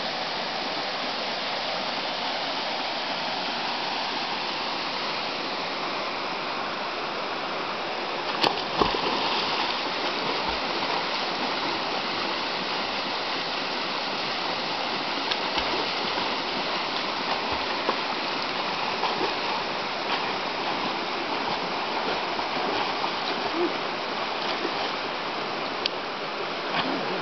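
Waterfall pouring with a strong flow: a steady, continuous rush of falling water. A sharp click about eight seconds in, after which the rush is a little louder, with small irregular peaks.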